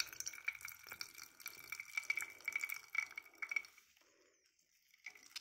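Juice of grated cucumber squeezed through a cheesecloth, trickling and dripping into a cezve with wet squelching crackles. It stops about four seconds in and starts again briefly near the end.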